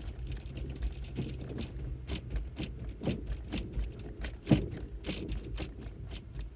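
Car rolling over a snowy, icy road: the tyres crunch and crackle in quick, irregular clicks over a low rumble, with one sharper crack about four and a half seconds in.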